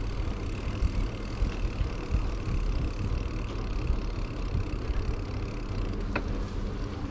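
Wind rumbling on the microphone of a moving bicycle, with a single sharp click about six seconds in.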